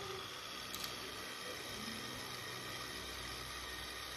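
775 DC motor of a homemade mini grass trimmer running steadily with its newly made blade fitted, in a brief test spin. A light click just under a second in.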